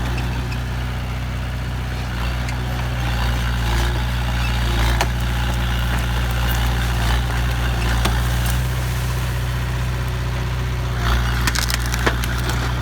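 Heavy diesel engine of a dump truck or excavator running steadily at low revs, with a few sharp knocks and a cluster of clanks near the end.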